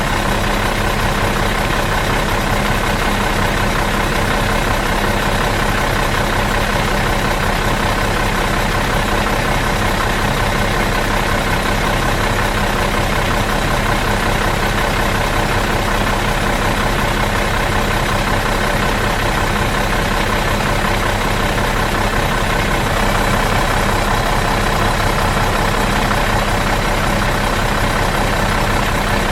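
Bus engine idling out of gear, a steady low throbbing run with no change in speed.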